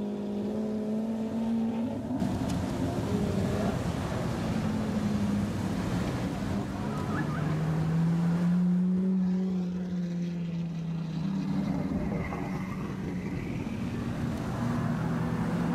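Supercar engines running at low revs as the cars roll slowly past one after another, among them a Lamborghini Aventador V12. One engine's note rises and then falls from about eight seconds in.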